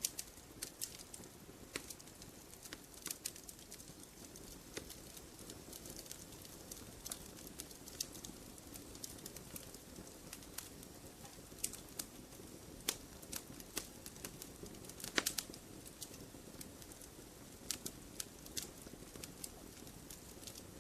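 Wood campfire crackling: irregular sharp pops and snaps over a soft, steady low rush of burning, with a quick cluster of louder pops about fifteen seconds in.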